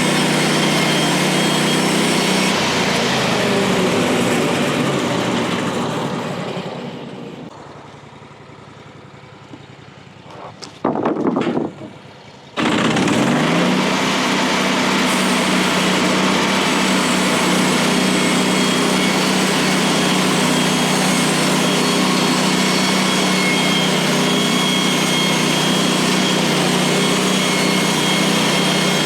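Woodland Mills HM136MAX bandsaw sawmill's engine running steadily at speed while its blade saws a pine log into a 6x6 beam. The sound fades away about six seconds in, with two short bumps near eleven seconds, then cuts back in suddenly with a brief rise in pitch.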